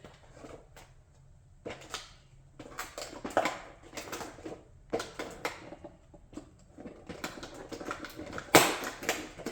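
Model race car being crushed: its parts crack and snap in an irregular series of sharp clicks, with the loudest crack near the end.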